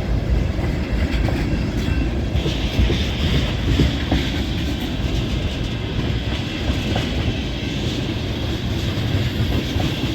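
Freight train cars of an intermodal train rolling past: a steady rumble with wheels clacking over the rail joints. A higher hiss joins about two seconds in.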